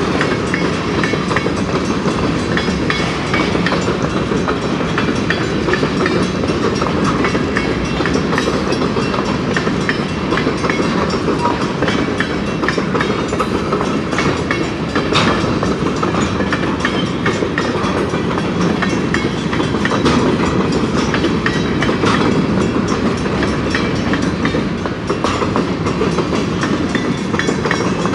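Covered hopper cars of a long Canadian Pacific freight train rolling past close by: a steady rumble of steel wheels on rail, with continual clicking and clattering as the wheel sets pass over the track.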